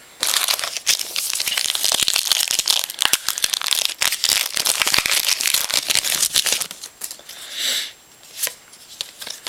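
A foil trading-card pack wrapper being torn open and crinkled: a dense crackling rustle for about six and a half seconds, then a brief rustle and a few clicks near the end.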